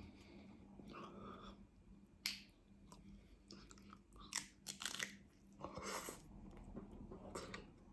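Close-up chewing and biting of a crunchy taco shell: scattered crisp crunches and wet mouth clicks, with a faint steady hum beneath.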